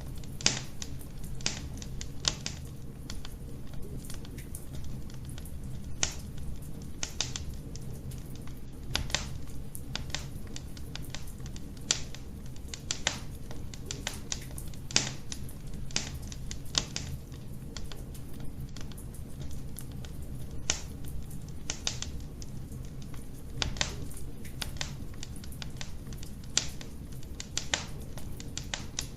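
Wood fire burning in a fireplace, with sharp, irregular crackles and pops over a steady low rumble of the flames.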